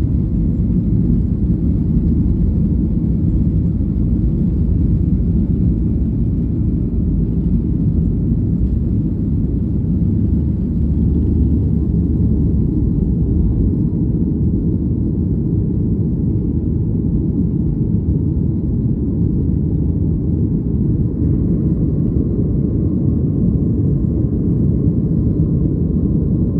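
Airplane taking off: a steady, deep rumble of engines and rushing air.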